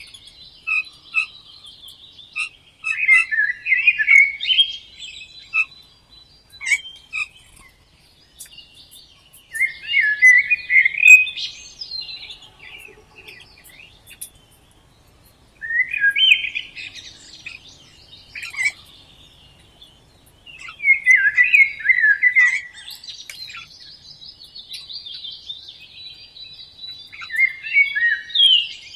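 Songbird singing in repeated warbling phrases, each about two seconds of quick, varied notes, coming every five or six seconds, with fainter chirps in between.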